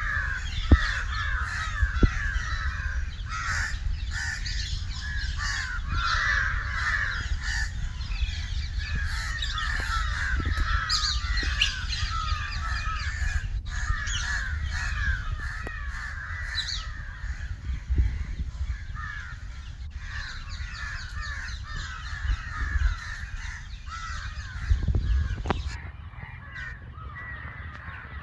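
A large flock of crows cawing over one another in a continuous, dense chorus, with a low rumble on the microphone and a few soft knocks.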